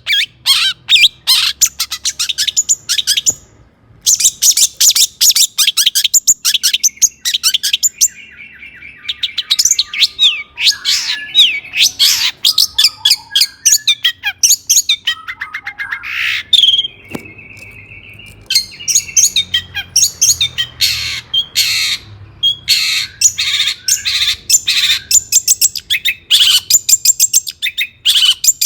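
Long-tailed shrike (cendet) singing hard: fast, harsh chattering notes mixed with clearer whistled phrases that mimic other birds, with a couple of brief pauses.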